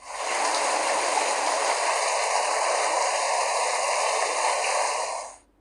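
Rain sound effect: a steady downpour hiss that starts at once, holds even for about five seconds and cuts off suddenly.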